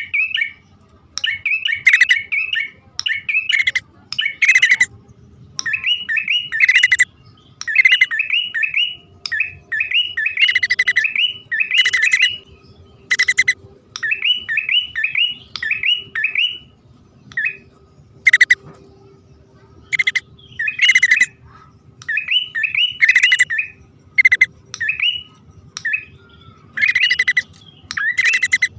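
Prenjak (prinia) song used as a trapping lure: repeated short phrases of quick, high chirping notes, about one phrase a second, with sharp harsh notes between them, presented as a male and female calling.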